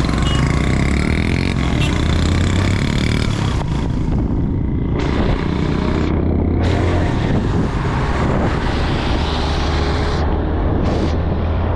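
Motorcycle engine running steadily under way, with wind and road noise over it; the higher hiss briefly drops away a few times.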